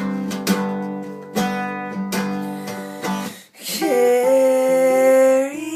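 Seagull acoustic guitar strummed, chord after chord ringing on. A little past halfway the strumming breaks off briefly, and a long held note sounds to the end.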